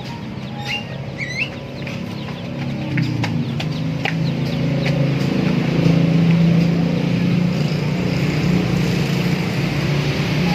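A few short, high bird chirps in the first second or so, then a low engine-like rumble swells up about three seconds in and holds, louder than the chirps.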